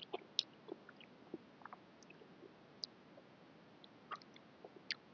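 A person chewing a mouthful of noodles, heard as faint, scattered wet mouth clicks and small smacks at an uneven pace.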